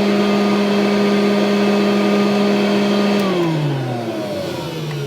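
1984 Kirby Heritage vacuum cleaner's motor running at a steady pitch, then switched off about three seconds in, its hum falling in pitch and fading as the motor spins down.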